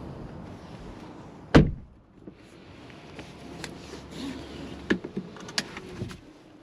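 Car door shut with one loud, solid thud about a second and a half in, after which the background drops quieter, followed by a few light clicks and knocks.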